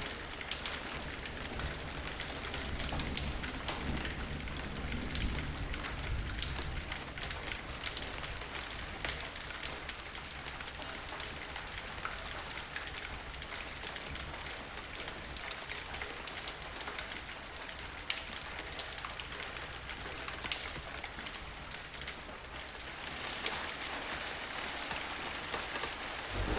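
Steady rain falling on a surface, with many individual drops ticking sharply through an even hiss.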